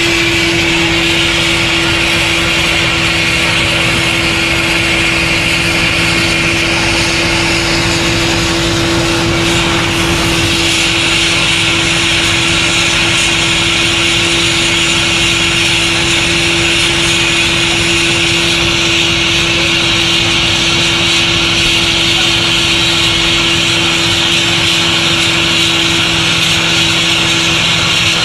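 An engine running steadily at a constant speed, with a steady hum and an even hiss over it.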